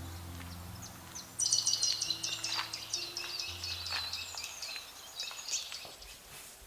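A songbird singing a fast twittering song, starting about a second and a half in and lasting about four seconds, over the last low held notes of soft background music, which fade out.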